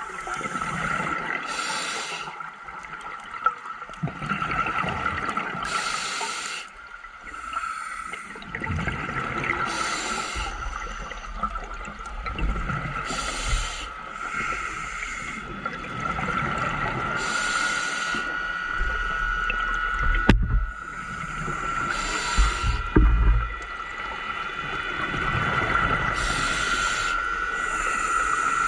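Scuba diver breathing through a regulator underwater: hissing, bubbling exhalations come every few seconds, with low gurgles between them. A steady high whine runs underneath.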